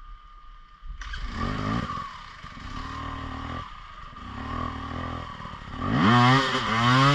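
Enduro motorcycle engine revving in short bursts. It starts about a second in with a rise in pitch, then runs at a lower, steadier note, and gives its loudest revs near the end.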